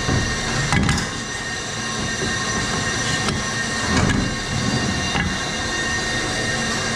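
A running engine with a steady high-pitched squeal over a low rumble, the noise of a worn bearing in the belt drive.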